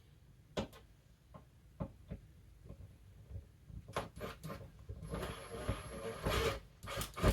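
Scattered light taps and knocks as a screw is set against the shelf, then about a second and a half of grinding as the screw is driven into the wood, near the end.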